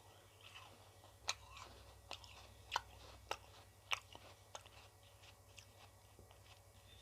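Quiet close-up eating of ice cream: chewing, with a string of sharp, short crunches or mouth clicks coming about once every half second to a second.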